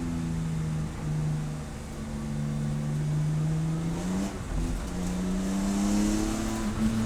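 Race car engine running under load, its pitch climbing slowly, falling away sharply a little over four seconds in, then climbing again.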